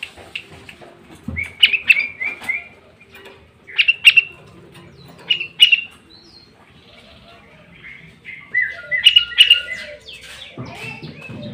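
Sooty-headed bulbul (kutilang) singing in short, loud phrases of a few notes each, a second or two apart, with a longer, busier run of notes near the end.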